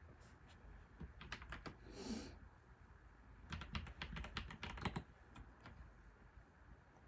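Typing on a computer keyboard: a few keystrokes, then a brief swish about two seconds in, then a quick run of keystrokes a little past the middle, followed by a couple of stray taps.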